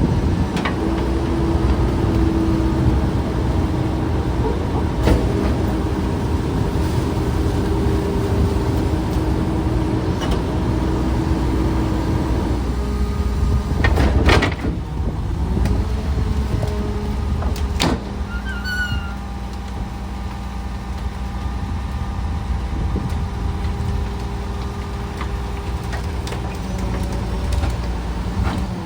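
Garbage truck's diesel engine running, with steady pitched tones that shift as it works and several sharp metallic knocks, the loudest about halfway through.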